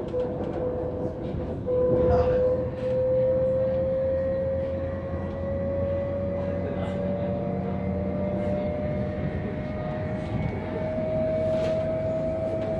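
Electric train heard from inside the carriage: a motor whine rising slowly and steadily in pitch as the train gathers speed, over the steady rumble of wheels on the track, with a knock about two seconds in.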